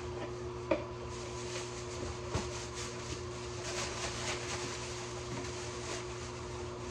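A steady mechanical hum of a running machine, with a sharp click about a second in, another a little past two seconds, and light rustling.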